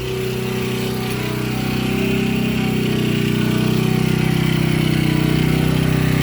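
Predator 1800-watt portable generator's single-cylinder engine running steadily, getting a little louder over the first couple of seconds and then holding an even hum.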